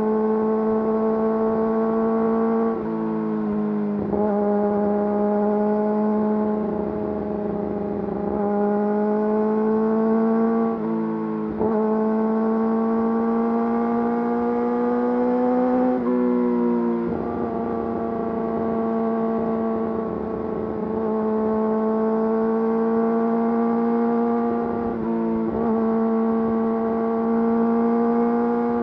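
Yamaha YZF-R6 inline-four engine through an Akrapovič full exhaust system, running at steady mid revs while riding. Its pitch creeps slowly upward and dips briefly four times.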